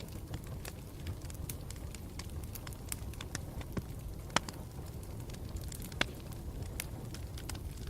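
Campfire burning with a steady low rumble and irregular sharp crackles and pops, two louder pops about four and six seconds in.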